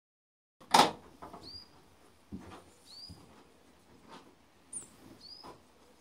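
A small bird repeats a short, high, upslurred whistled call about every two seconds. Irregular knocks run through it, the loudest about a second in.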